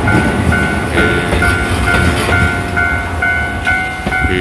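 Level-crossing warning bell dinging about twice a second while a Shizuoka Railway 1000-series stainless train runs past, its wheels rumbling and clacking over the rails.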